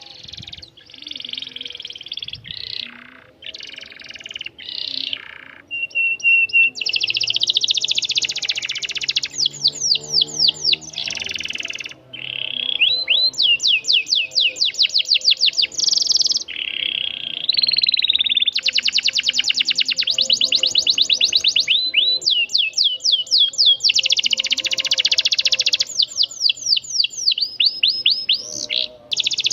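Domestic canary singing a long song of rolls: phrase after phrase of rapidly repeated high notes and fast sweeping trills, with short breaks between phrases.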